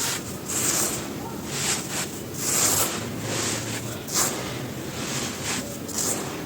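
Dry, dusty crumbly cylinders being crushed and crumbled, with a crisp crunching that comes in irregular bursts about once a second.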